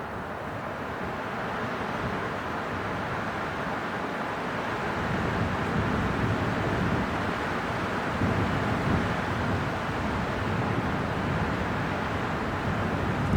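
Winter wind blowing steadily, swelling in slow gusts in the second half.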